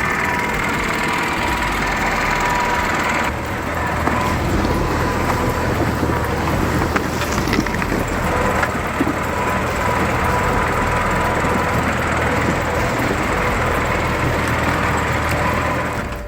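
Tractor engine running with a steady low drone, mixed with the noise of the machine at work. The sound changes abruptly about three seconds in.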